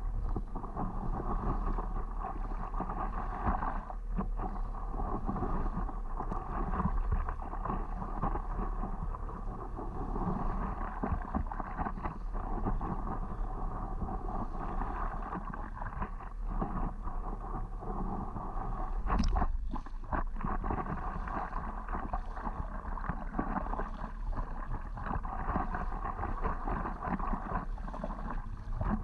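Steady sloshing of water around a stand-up paddleboard, with low wind rumble on the microphone. A single sharp knock stands out about two-thirds of the way through.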